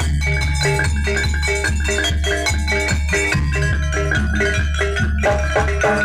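Jaranan gamelan music: metallophones struck in a fast, even repeating pattern over a steady low bass.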